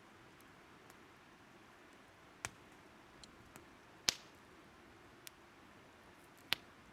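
Burning wood crackling: three sharp snaps and a few softer ticks, irregularly spaced, over a faint steady hiss.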